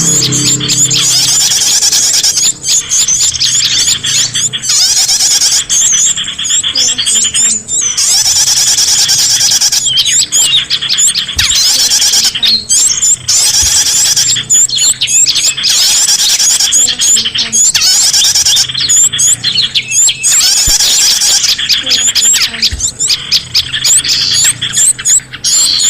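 Dense chorus of many small birds chirping and calling at once, rapid high sweeping notes overlapping almost without pause and breaking off briefly every couple of seconds: a noisy mixed-bird lure recording (suara burung ribut) used to draw in small birds.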